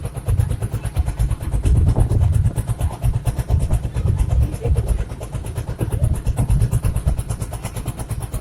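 Small boat's engine running steadily, a low, rapid, even thudding.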